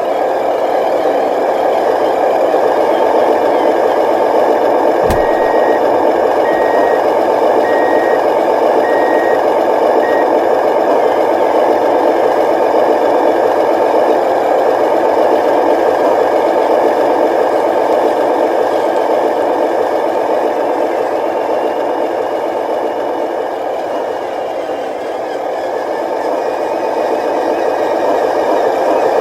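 Radio-controlled dump truck running with a steady mechanical whir. About five seconds in, its reversing beeper sounds five short high beeps, a little over a second apart.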